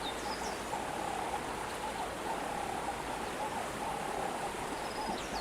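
Steady rushing of flowing water, like a river or stream, with a few faint high chirps.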